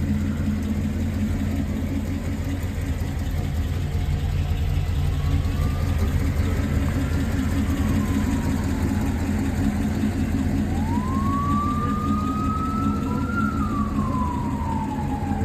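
Steady engine and road hum of a moving car, with a siren wailing over it: a faint rise and fall early on, then a clearer wail that rises about ten seconds in and slowly falls.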